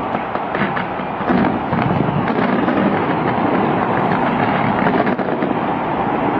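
A fireworks display with many overlapping bangs and crackles in a continuous barrage, growing louder about a second in.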